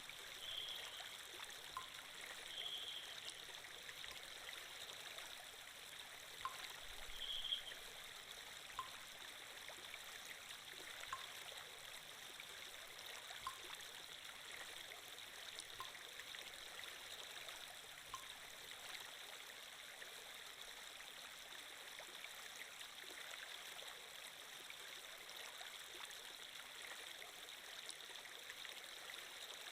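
Steady, fairly quiet flowing water from a stream-like water sound effect. A few brief high sounds come in the first eight seconds, and faint light ticks recur about every two seconds until roughly two thirds of the way through.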